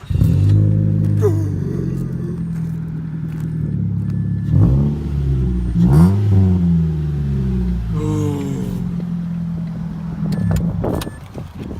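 Car engine starting up and running, revved several times, about a second in, around five to six seconds in and again about eight seconds in, and easing off near the end.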